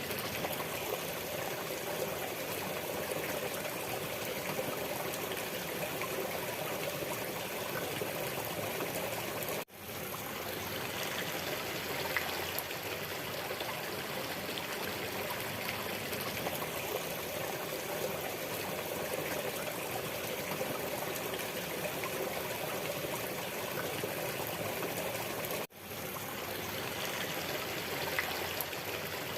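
Waterfall water rushing and splashing in a steady wash. The sound cuts out for an instant twice and swells back in.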